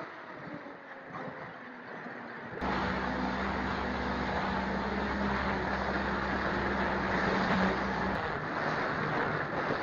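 Electric motor and propeller of a small RC park-flyer model plane running at a steady pitch under a loud rush of air. The sound gets suddenly louder about two and a half seconds in, and the hum shifts about a second before the end.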